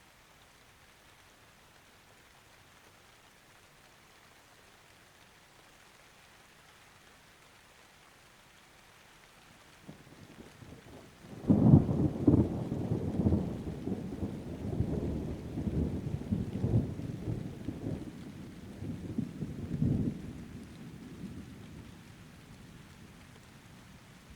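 Steady light rain, then a thunderclap about halfway through: a low rumble builds, breaks into a sudden loud crack, and rolls on in repeated swells before fading away over about ten seconds.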